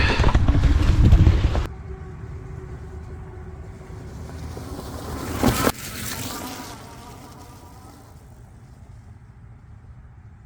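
Wind noise on the microphone while riding, cutting off abruptly after the first couple of seconds. Then a faint buzzing whine from the folding e-bike's electric motor under pedal assist, with a short burst of noise about halfway through.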